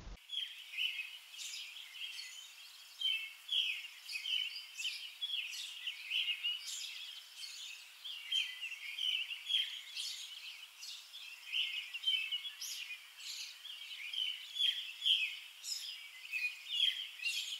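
Songbirds chirping and singing, many short high calls following one another closely without a break.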